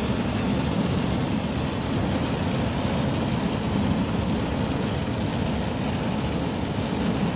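Hard rain falling in strong wind: a steady rushing noise with a deep rumble underneath.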